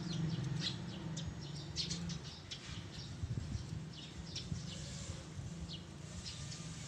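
Small birds chirping: short, high chirps scattered irregularly throughout. A low hum underneath fades out about two seconds in.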